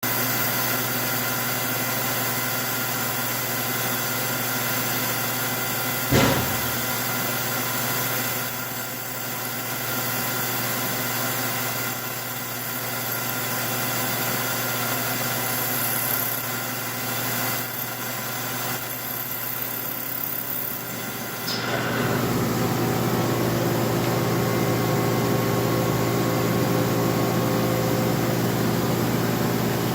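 Shizuoka AN-S CNC knee mill running with a steady mechanical hum made of many fixed tones. There is a sharp knock about six seconds in. A little after twenty seconds in, the running note changes and grows slightly louder.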